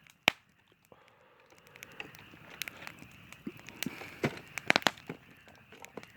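Campfire crackling: scattered sharp pops of burning wood over a faint hiss, with a loud pop just after the start and a cluster of pops about four to five seconds in.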